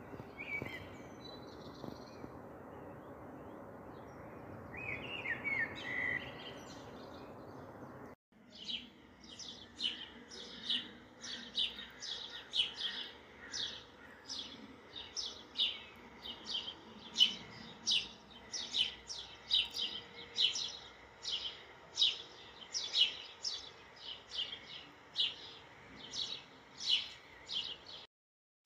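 A bird chirping over and over, about two short high calls a second, from about eight seconds in. Before that there is a steady background hiss with a few faint chirps.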